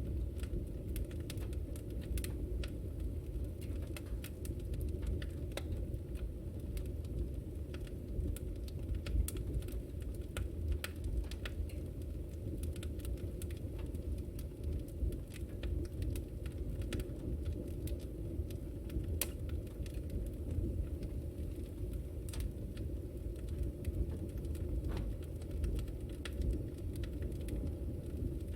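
Wood fire burning in a fireplace: a steady low rumble of flames with frequent irregular sharp crackles and pops of sparks.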